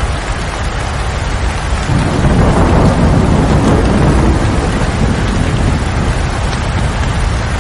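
Steady rain pouring, with a low rumble of thunder swelling about two seconds in and fading away over the next few seconds.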